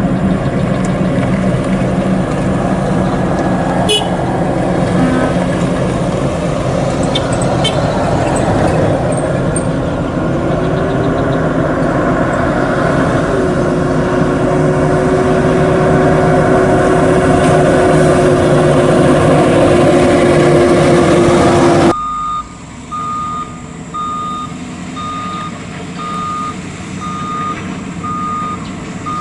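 Heavy truck's diesel engine running, with a whine that rises and then holds steady from about halfway through. After an abrupt cut near the end, a truck's reversing alarm beeps about once a second.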